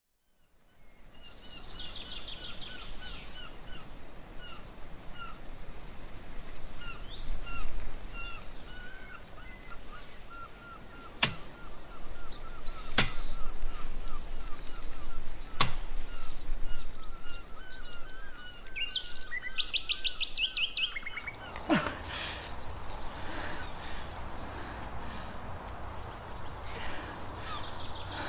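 Songbirds singing and chirping: many short repeated chirps and a few quick trills over steady background noise and a low hum. Three sharp clicks sound in the middle.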